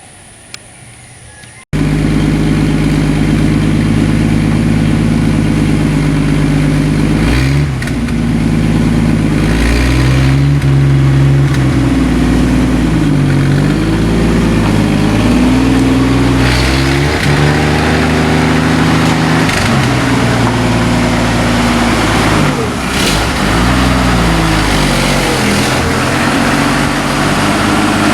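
A Ford 223 inline-six in a 1964 Ford F100 pickup runs loudly and is revved up and down again and again. It comes in suddenly about two seconds in, after a quiet hiss.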